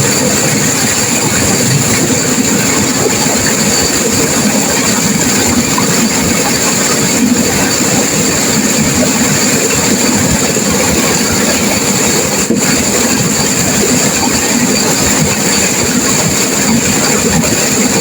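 Turbulent river water rushing and crashing over rapids, a loud, steady roar that never lets up.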